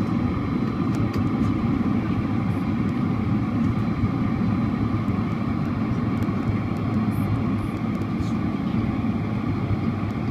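Steady jet-engine and airflow noise of a Boeing 767-400ER airliner heard inside the passenger cabin, holding an even level throughout.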